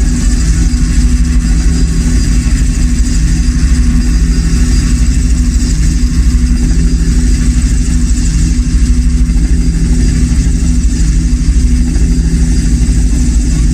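Motorcycle engines running steadily, idling with some revving, in a loud recording with heavy low-end rumble.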